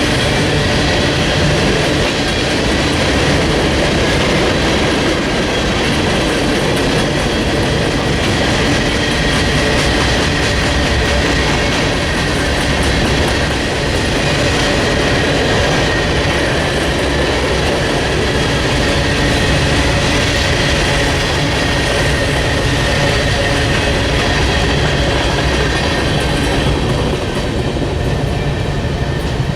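Railroad cars rolling past at close range: a steady, loud rumble of steel wheels on rail, with a thin, steady high squeal above it. It stops suddenly at the end.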